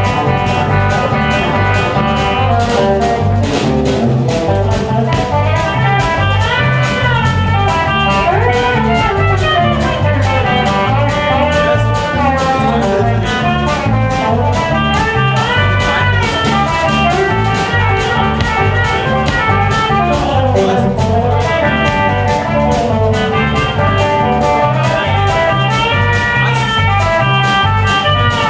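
Live band playing an instrumental break in a blues-rock song: a lead melody line bending up and down over a steady bass line and drum beat.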